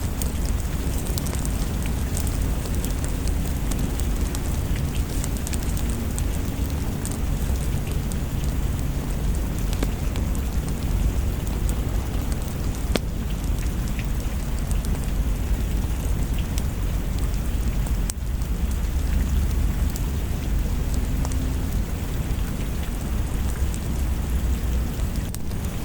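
Steady heavy rain falling, a continuous even hiss over a deep low rumble, with scattered faint sharp ticks.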